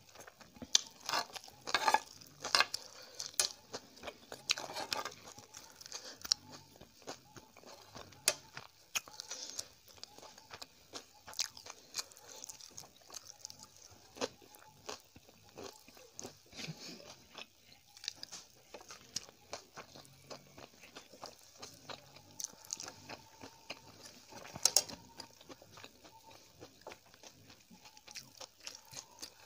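Close-miked chewing and mouth sounds of someone eating instant noodles: wet smacking with many short sharp clicks, loudest in the first few seconds and at one sharp click about 25 seconds in.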